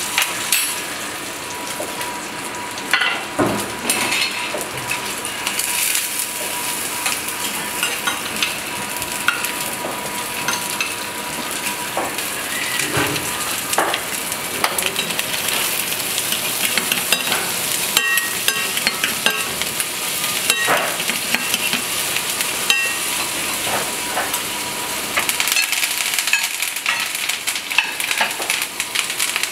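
Scampi sizzling steadily in a hot frying pan as it is basted with a spoon, with occasional metallic clicks of the spoon and tongs against the pan.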